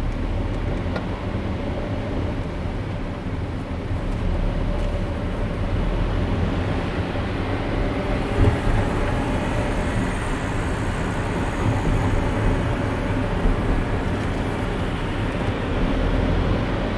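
Steady road and tyre noise of a car driving, a low even rumble, with a brief louder knock about halfway through.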